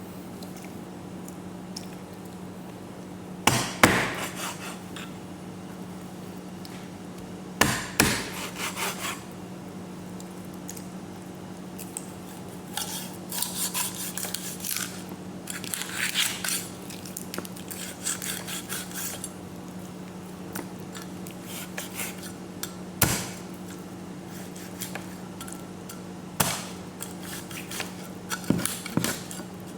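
Kitchen work while cooking chicken: a few sharp knocks, as on a cutting board, and stretches of clinking dishes and utensils, over a steady low hum.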